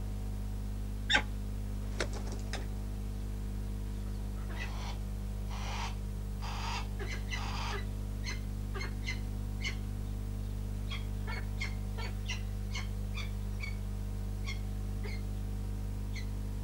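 A bird giving short, sharp calls, repeated irregularly and at times several a second, over a steady electrical hum. A few short rustling noises come just before the calls pick up.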